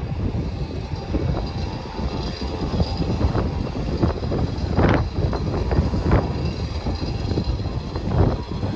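Strong wind buffeting the microphone: a loud, dense low rumble that surges in gusts about five, six and eight seconds in. Under it sits a faint steady high whine from a parked jet airliner.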